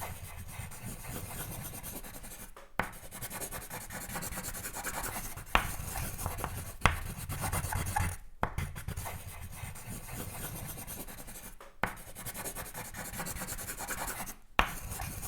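Sketching on paper: scratchy strokes of a drawing tool across the sheet, broken by four short pauses where the tool lifts. A few sharp taps come in the middle and near the end.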